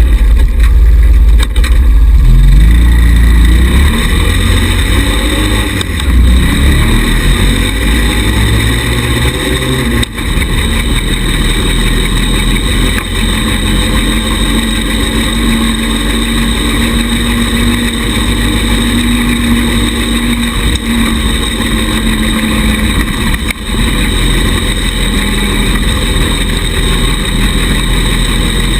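Small 110cc buggy engine running: the revs rise and fall for the first ten seconds or so, then hold fairly steady for a stretch before varying again.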